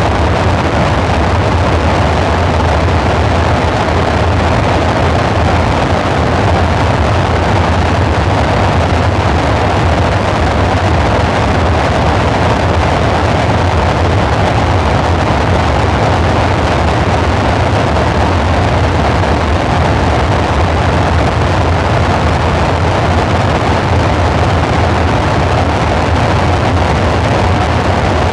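Dark ambient synthesizer drone: a steady, noisy rumble with a low hum and a hissing midrange band, unchanging and without any beat.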